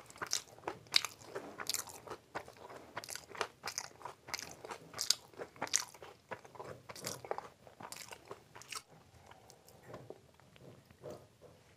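Close-miked chewing of a mouthful of fried rice and Manchurian: a dense run of wet, crackly mouth clicks that thins out about nine seconds in, leaving softer, scattered sounds.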